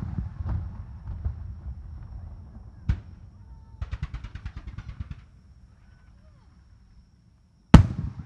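Aerial fireworks shells bursting: the rumbling echo of a large burst, a sharp report about three seconds in, and a quick run of crackles just after. Another loud bang comes near the end.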